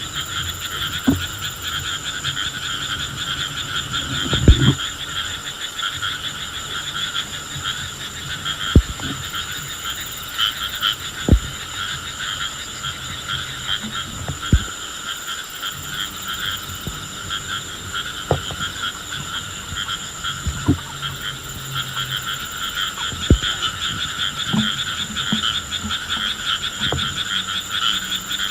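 A dense, steady chorus of calling frogs, with about a dozen short, low pops or knocks at irregular intervals of two to three seconds.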